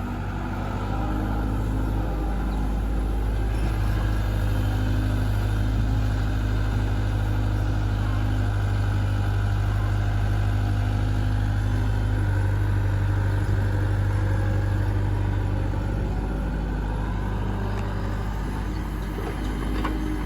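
Diesel engine of heavy farm or earthmoving machinery running steadily at a constant speed: a low, even hum with no revving.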